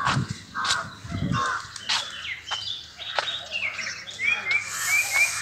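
Birds calling: a few harsh caws in the first second and a half, then a quick run of short, evenly spaced chirps near the end.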